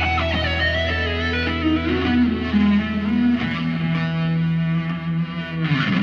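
Electric guitar playing a solo line with sliding, bending notes through an effects unit over a sustained low bass note.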